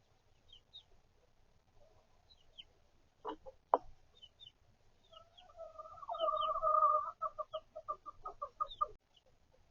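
Hen clucking: a drawn-out call that breaks into rapid repeated clucks, over the soft high peeps of chicks. Two sharp knocks sound about three seconds in.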